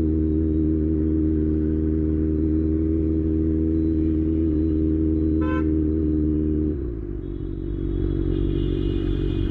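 Kawasaki ZX-6R's inline-four engine running at a steady pitch, then dropping and turning rougher about seven seconds in. A short beep sounds just before the change.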